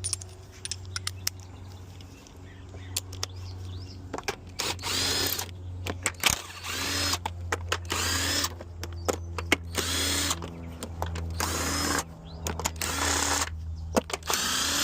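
Scattered light tool clicks, then from about four seconds in a cordless power tool runs in about eight short bursts of roughly a second each, each one whirring up in pitch.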